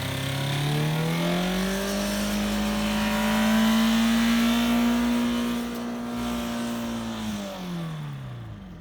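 BMW E46 2.0-litre four-cylinder diesel in runaway, running uncontrolled at very high revs. Its pitch climbs over the first two seconds, holds high, then drops and fades over the last two seconds as the engine winds down.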